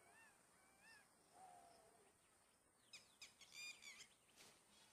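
Faint bird calls: a few short rising-and-falling notes in the first two seconds, then a quick run of louder, harsher calls about three seconds in.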